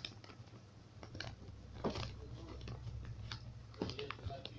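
A sheet of paper being folded and creased by hand: scattered soft crackles and taps, with a low steady hum underneath.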